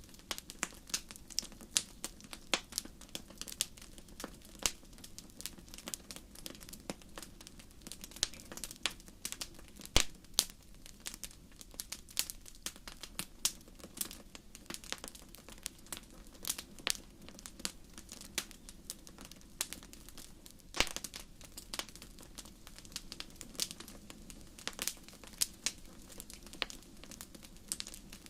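Wood fire crackling: a steady stream of irregular sharp pops and snaps over a steady low background, with a louder pop about ten seconds in and another about twenty-one seconds in.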